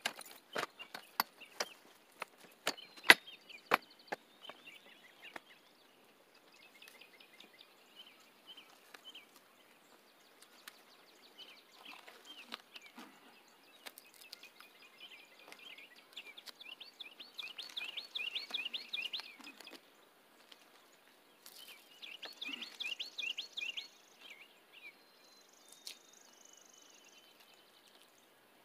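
A few sharp knocks and clicks in the first seconds, the loudest about three seconds in. Then songbirds sing in repeated chirping phrases, with two bursts of fast trills in the second half.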